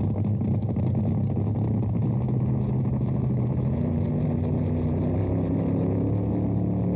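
Drag boat engine running steadily with a deep, even note, its pitch stepping up slightly about four seconds in.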